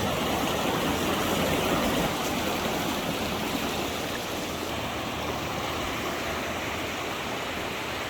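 Fast-flowing river water rushing, a steady even roar of running water.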